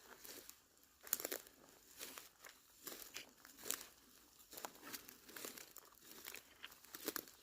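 Footsteps crunching on the forest floor at a steady walking pace, about one step every second.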